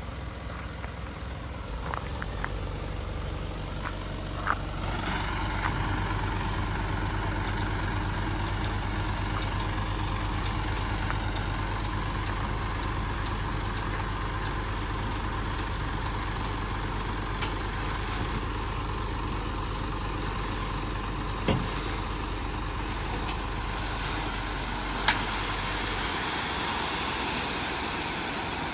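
A truck's engine running steadily at idle, louder from about five seconds in, with a few sharp knocks.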